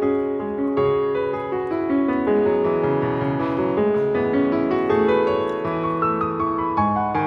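Background piano music: a gentle melody of repeated notes over sustained chords.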